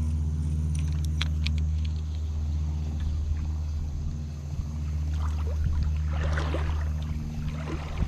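A steady low drone with an even, motor-like pitch, with a few light clicks near the start and a brief rushing noise about six seconds in.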